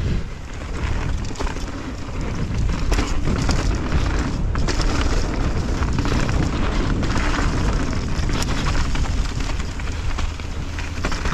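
Wind rumbling over a helmet- or chest-mounted action camera's microphone while a downhill mountain bike rolls down a dirt trail, with scattered knocks and rattles from the bike going over bumps.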